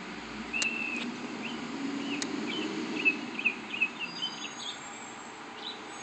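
Small birds chirping outdoors, a quick run of short high notes, busiest in the first two-thirds, over a low rumble that fades out about halfway through.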